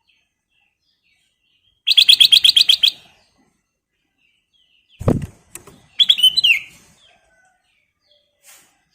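Black-crested bulbul (kutilang emas) calling: a fast run of about ten sharp, high notes in a second, then a short call that falls in pitch a second after a low thump. Faint chirps in between.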